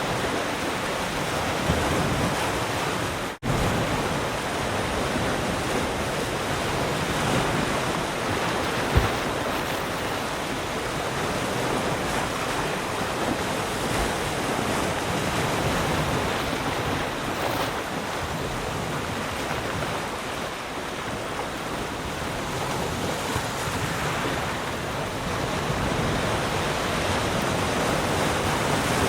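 Sea surf: waves breaking and washing up the shore in a steady, continuous rush that swells and eases gently. The sound cuts out for an instant about three seconds in.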